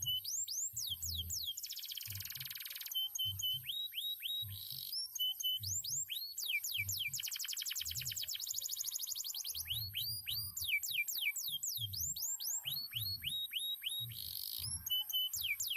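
Male canary singing a long, varied song: runs of quick falling whistled notes, short held notes and long, rapid rolling trills. Low, irregular thuds sound underneath.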